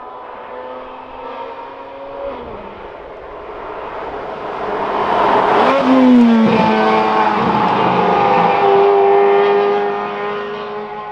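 Sports car engine running, growing louder to a peak about six seconds in, where its pitch drops, then holding steady and easing off near the end.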